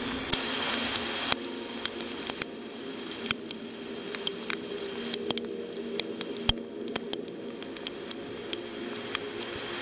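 Heavy rain, with single drops striking close by as irregular sharp ticks over a steady wash, and a low steady hum underneath.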